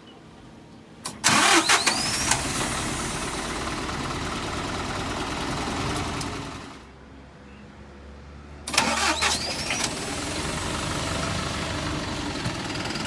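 A diesel bus engine started twice: each time a brief crank, then the engine catches with a loud burst and settles into a steady idle. The first run drops away after about five seconds, and the second start comes about eight and a half seconds in.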